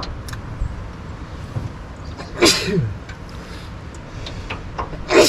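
Two short, breathy vocal bursts from a person, each ending in a falling tone, about three seconds apart, over a steady low wind rumble on the microphone.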